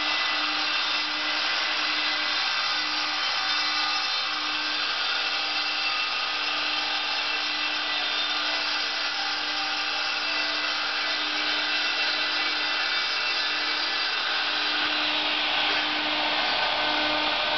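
A power saw running steadily: an even, continuous hiss with a low hum that pulses slightly underneath.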